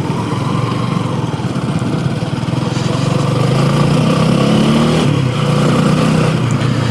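Motorcycle engine running at road speed, with a steady rushing noise around it. The engine note rises about halfway through and drops again about five seconds in.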